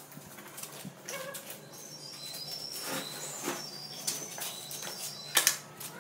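Birds chirping in short high whistled calls, with two sharp knocks or clicks about five seconds in, the loudest sounds.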